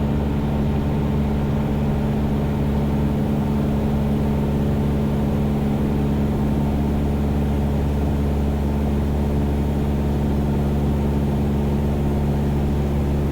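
Cessna 172's piston engine and propeller droning steadily in level cruise, heard from inside the cabin.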